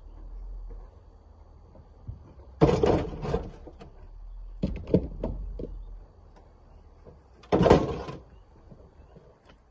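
Rocks thrown into the steel bed of a dump truck, landing with three loud clattering crashes about two seconds apart; the middle one is several knocks in quick succession.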